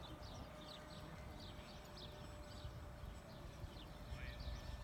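Small birds chirping, short high falling chirps about twice a second, over a low wind rumble on the microphone.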